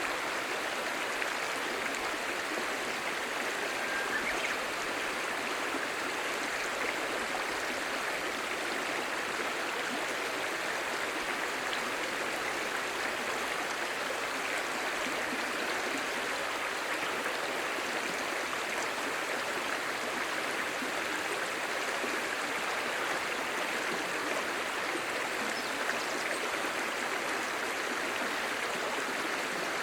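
A clear, shallow stream babbling steadily over stones, an even rush of water with no let-up.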